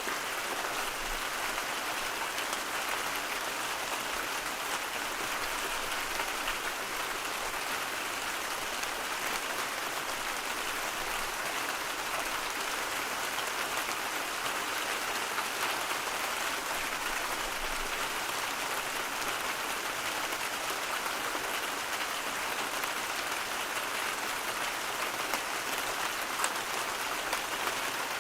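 Steady white-noise track with a rain-like hiss, unchanging throughout, with little deep bass and most of its sound in the middle and upper range.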